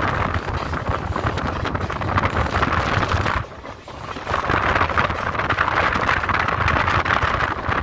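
Passenger express train running along the track, heard from its open doorway: a steady rumble and rattle of the coaches, with wind buffeting the microphone. The noise drops for under a second a little before the middle, then comes back.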